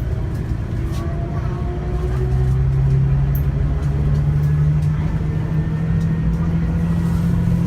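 Scania K360IB coach under way, its engine note climbing slowly in pitch as it gathers speed, with a steady low hum that comes in about two seconds in.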